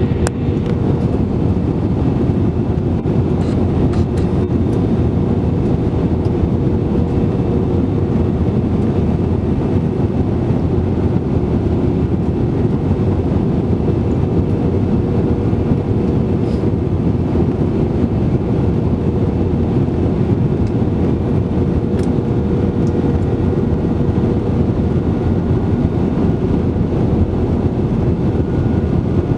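Steady in-flight cabin roar of an Airbus A320-200 airliner: engine and airflow noise with a constant hum running underneath. A few faint ticks can be heard.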